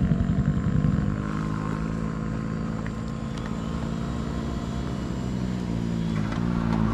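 Yamaha MT-15's single-cylinder engine running on the move: it eases off about a second in, holds a steady note, then rises in pitch near the end as the throttle opens.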